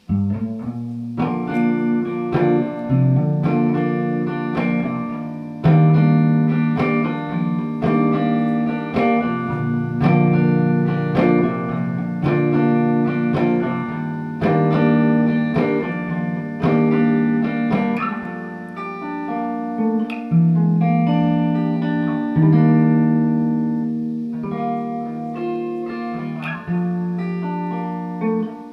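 Music: a guitar playing an instrumental intro, picking chords in a steady rhythm.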